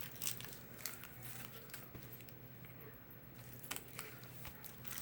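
Packaging on hand-made pencil packs crinkling and rustling as they are handled. It comes as faint, scattered crackles and ticks, sparser around the middle.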